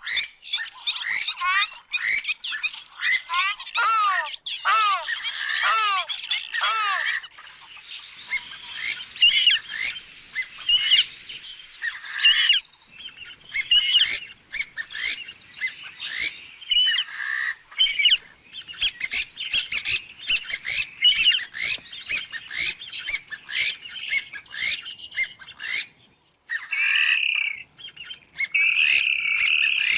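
Purple swamphen calling over and over: a dense run of short, squawking calls, many sliding down in pitch, with a few longer, steadier notes near the end.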